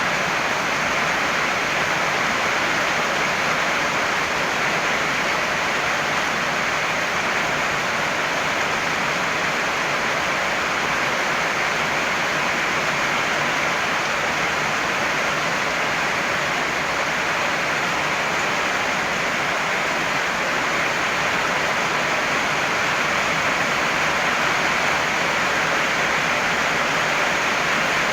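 Heavy rain falling, a steady, unbroken hiss with no thunder.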